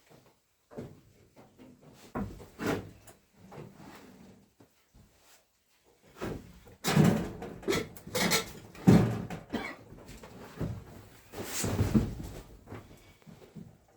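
Irregular knocks, bumps and rustles of things being handled, coming thickest and loudest in the second half.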